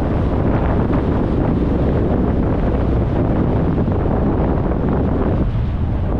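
Wind rushing over the microphone of a camera mounted outside a moving car at highway speed, with the car's road and tyre noise beneath. It eases slightly near the end.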